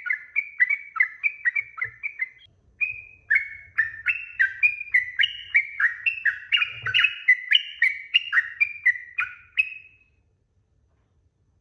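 Yellow-vented bulbul (trucukan) singing a long, fast run of chirping notes, about three a second, with a short break about two and a half seconds in; the song stops about ten seconds in.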